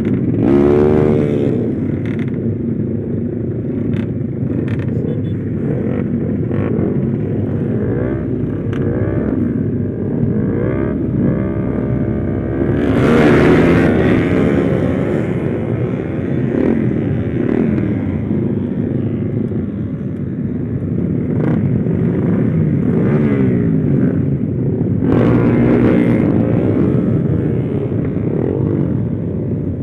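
Motorcycle engine, freshly rebuilt, revving hard while riding, its pitch climbing in repeated runs through the gears. The loudest and highest run comes about halfway through.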